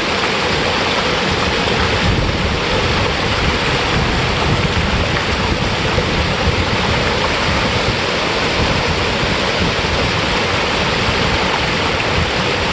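Waterfall pouring into a creek pool: a steady rush of water.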